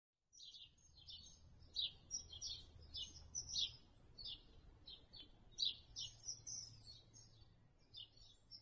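Faint birdsong: small birds chirping and twittering in many short, quick, high-pitched calls, a few to each second, over a faint low hum.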